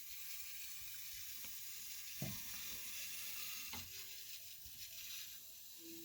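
Toilet tank fill valve hissing faintly and steadily as it keeps letting water in: the tank is still refilling because something is still leaking. A single small knock about two seconds in.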